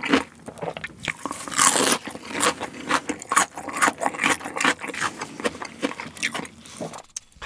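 Close-miked crunchy chewing of a piece of raw yellow bell pepper: a rapid, irregular run of crisp, wet crunches, loudest about a second and a half in and fading out near the end.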